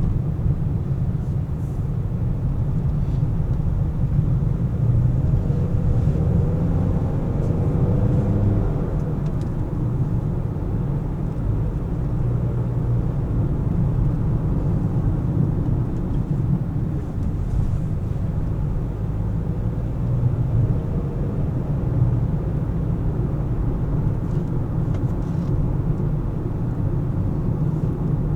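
A car driving in city traffic: a steady low rumble of engine and tyre noise. A pitched engine note rises and falls about five to nine seconds in.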